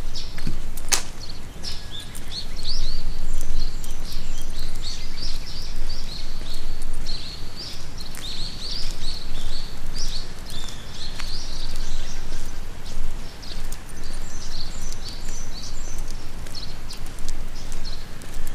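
Small birds chirping and twittering in a rapid, busy chorus, with a steady low rumble underneath and a single sharp click about a second in.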